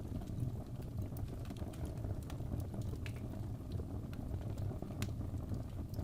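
Wood fire burning in a fireplace: a steady low rumble of flames with scattered sharp crackles and pops, the loudest about five seconds in.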